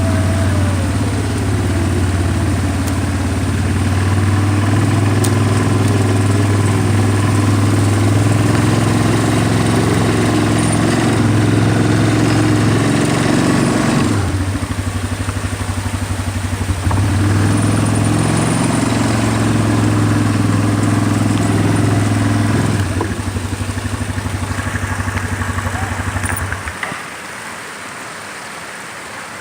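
A vehicle engine running as it drives along, easing off twice and cutting out about 27 seconds in. A steady rush of running water is left.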